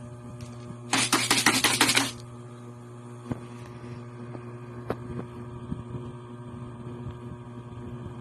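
A rattle of dry cat kibble, a dense run of quick clicks lasting about a second, then scattered faint clicks as the cats eat, over a steady electrical hum.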